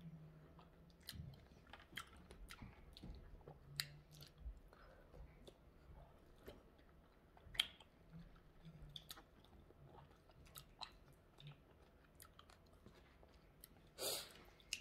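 Faint, wet clicks and squelches of a person chewing strawberries with her mouth closed. There is a short rush of noise near the end.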